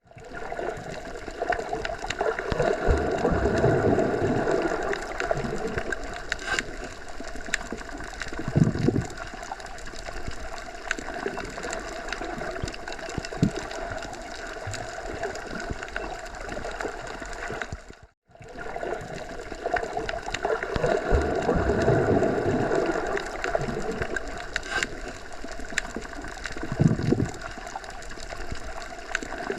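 Wind blowing through forest trees, a steady rushing that swells and eases in gusts. It cuts out for a moment about two-thirds of the way through, and the same stretch of gusts then repeats.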